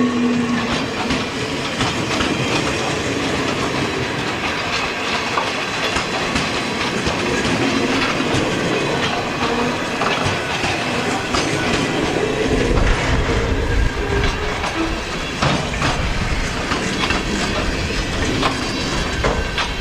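Freight train rolling past at close range, its wheels clicking steadily over rail joints, with a faint squeal now and then. A deeper rumble joins about twelve seconds in.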